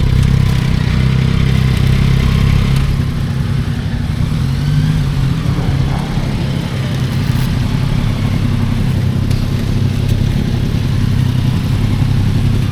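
Yamaha motorcycle engine running at steady, fairly low revs, with a brief small rise and fall in pitch around the middle, over a steady hiss of air and road noise.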